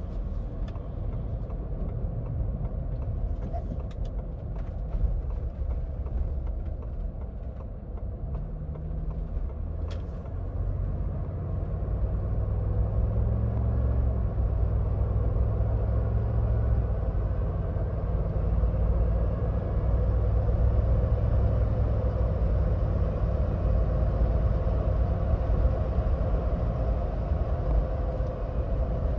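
A 2026 Ford Bronco Badlands driving on the highway: steady engine and road rumble. About ten seconds in, the engine note rises as it accelerates, then holds steady at a louder level.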